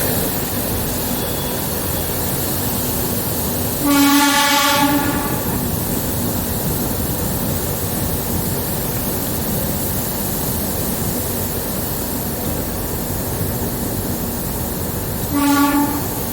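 Steady running noise of a DEMU diesel multiple-unit train heard from on board, with two horn blasts: one of about a second around four seconds in and a shorter one near the end.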